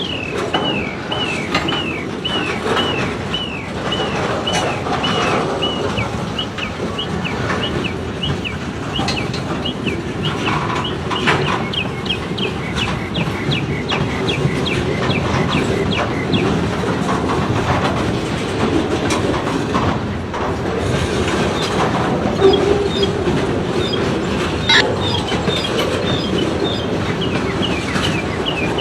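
A freight train rolling past, its wheels clicking over the rail joints. A rapid series of short, high-pitched dinging tones repeats about three times a second through much of the passage.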